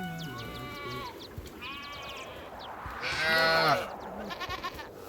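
Livestock calling: a run of bleating calls from goats or sheep, four in all, the loudest and longest about three seconds in.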